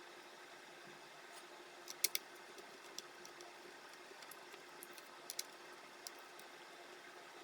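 Scattered sharp clicks and taps of small hard parts being handled, with a loud close pair about two seconds in and another pair a little past five seconds, over a steady faint hum.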